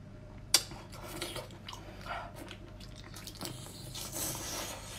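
A person biting into and chewing a whole octopus head, with one sharp click about half a second in followed by scattered smaller chewing ticks.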